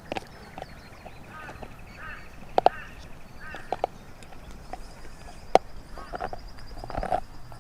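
Irregular sharp knocks and clicks, a few with a brief ring, over a steady high trill.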